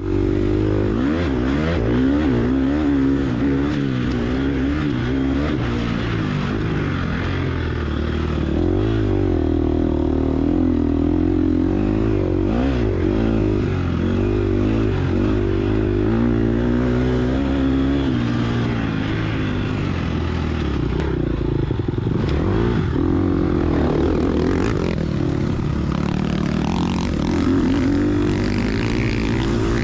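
Gas Gas EX250F four-stroke single-cylinder dirt bike engine ridden hard, revving up and down constantly as the throttle is worked.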